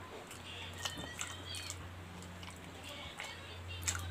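Close-up mouth sounds of a man chewing soft banana: wet clicks and lip smacks, with a sharper bite near the end, over a steady low hum.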